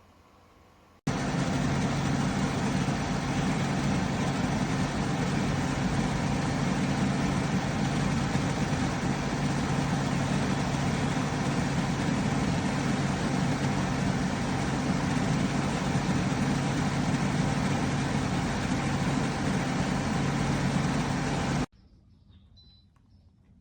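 KGOGO 7000 BTU portable air conditioner running: a loud, steady hum with an even rush of fan air. It cuts in abruptly about a second in and cuts off sharply near the end.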